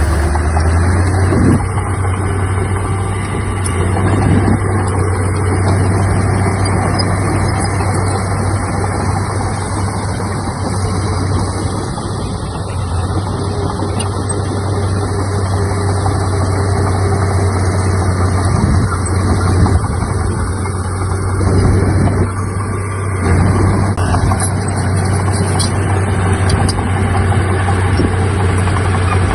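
Heavy diesel engine of earthmoving machinery running steadily under work, with a strong low hum whose loudness swells and eases several times.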